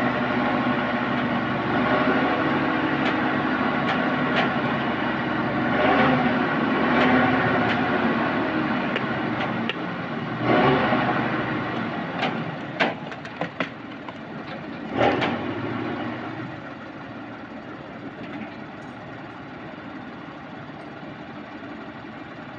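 Truck-mounted crane's diesel engine running, with several sharp knocks and clanks between about ten and fifteen seconds in. Near the end the engine settles to a quieter steady run.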